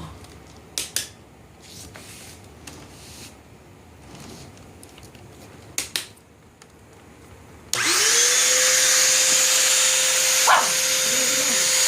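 A few sharp clicks, then about eight seconds in a vacuum cleaner switches on, its motor spinning up within a fraction of a second to a loud, steady whine over a rushing hiss.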